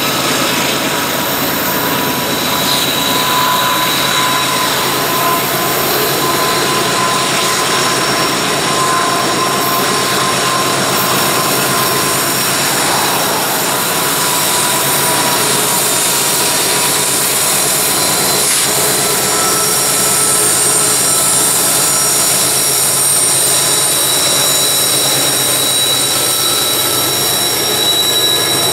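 Freight train passing: a loud, steady rolling rush with several high, held whining tones over it.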